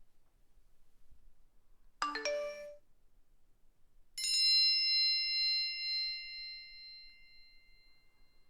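Two phone alert tones. About two seconds in, a quick run of short electronic notes lasting under a second; then a single bright bell-like chime that rings and slowly fades over about four seconds.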